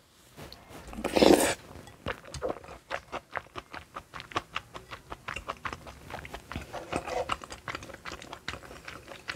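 Close-miked eating: a loud slurping intake as a spoonful of tteokbokki in creamy rosé sauce goes into the mouth about a second in, then rapid wet chewing clicks of the chewy rice cakes.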